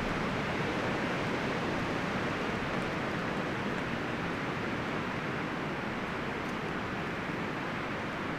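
Wind blowing through forest trees: a steady rush of rustling leaves and branches.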